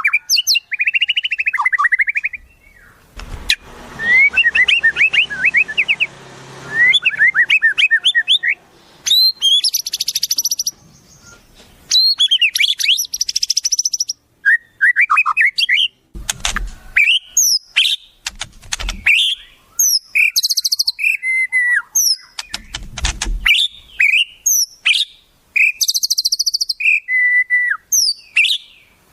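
Wild songbirds singing a varied run of sweet whistles, rapid up-and-down trills and high buzzy chirps, phrase after phrase with short pauses, a song-tutor recording for training white-rumped shamas. A few dull low thumps break in now and then.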